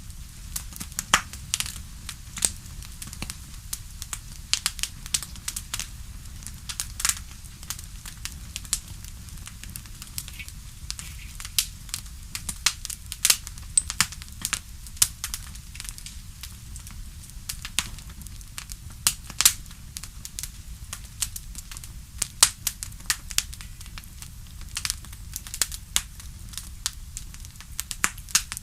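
Bonfire crackling: irregular sharp pops and snaps, several a second at times, over a steady low rumble of the burning fire.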